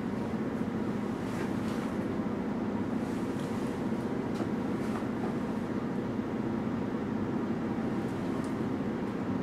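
Steady low hum and rumble of a standing passenger train, with a few faint clicks.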